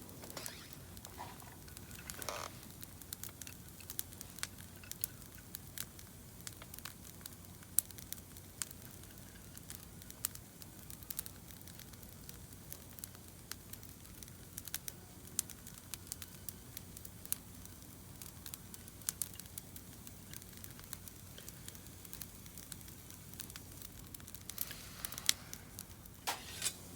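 Wood fire burning in a campfire pit, crackling and popping in sharp, irregular snaps over a low hiss. A few softer rustling noises come near the start and again near the end.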